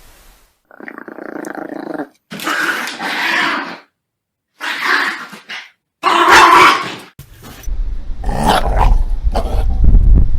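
Dog growling: four short growls with brief gaps between them, then from about halfway through a steadier, unbroken growl with a low rumble underneath.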